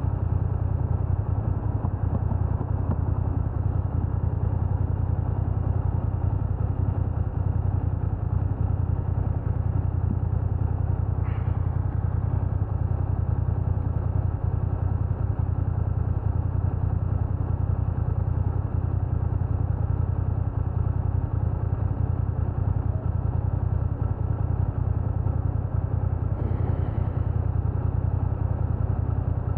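BMW F900R motorcycle's parallel-twin engine running steadily, a low, even rumble with no revving. Two brief faint higher sounds come about eleven and twenty-six seconds in.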